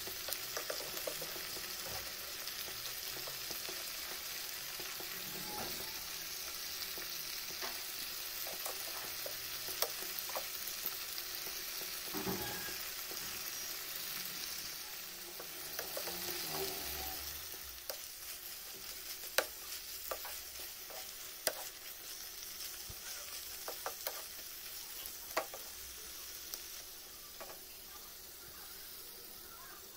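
Thick chicken curry gravy sizzling in a frying pan as a wooden spatula stirs it, with scattered sharp taps of the spatula against the pan. The sizzle grows quieter in the last third.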